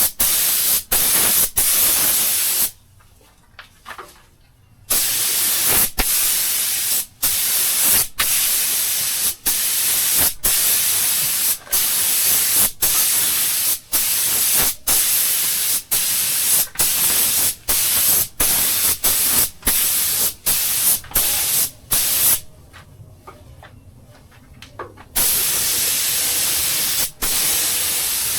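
Air-fed paint spray gun hissing as it lays on clear coat in long passes. The hiss drops out briefly many times as the trigger is let go, with two longer pauses of two to three seconds, one a few seconds in and one near the end.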